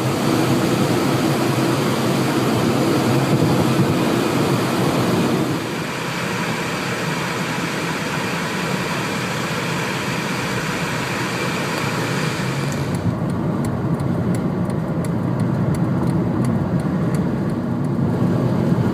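Steady rushing noise of strong wind and road traffic during a sandstorm. It changes abruptly about five and a half seconds in and again about thirteen seconds in, with faint high ticks after that.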